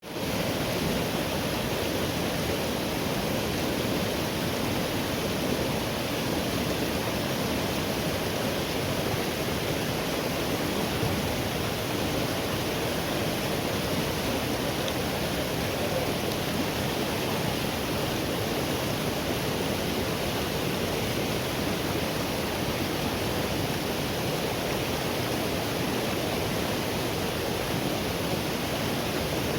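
Forest river flowing: a steady, even rush of water over rocks.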